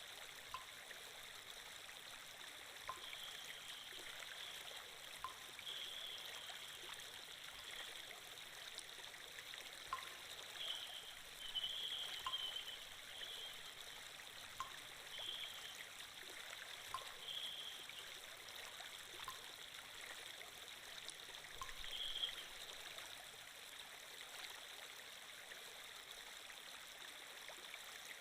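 Water-flow sound effect of a stream: a steady, faint rush of running water with a few brief brighter trickles.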